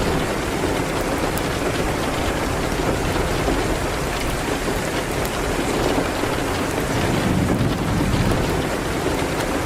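Steady heavy rain, with a low rumble swelling and fading about three quarters of the way through.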